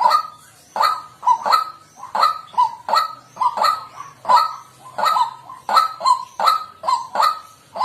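White-breasted waterhen calling: a harsh, loud call repeated about twice a second without a pause.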